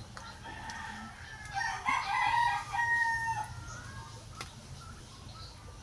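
A rooster crowing once, a drawn-out call of about two seconds that starts about a second and a half in.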